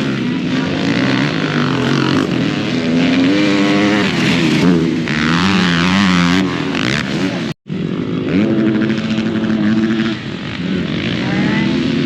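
Dirt bike engines revving on a race track, pitch rising and falling as riders work the throttle, with a brief dropout in the sound about two-thirds of the way through.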